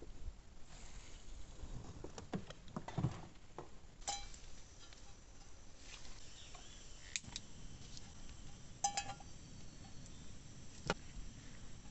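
Scattered clicks and clinks of small hard objects being handled, a few of them with a brief metallic ring, over a faint outdoor background.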